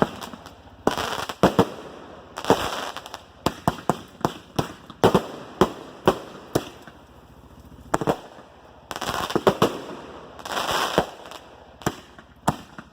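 Old fireworks going off: an irregular string of sharp bangs and pops, with several short hissing bursts among them.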